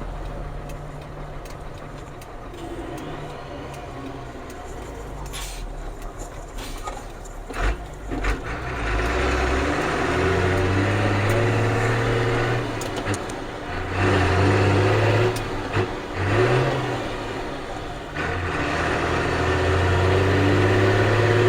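Ford CF7000's 6.6L Brazil diesel engine running steady at first, then, from about eight seconds in, pulling hard through the gears: the engine note climbs, breaks off at each shift and climbs again, four times.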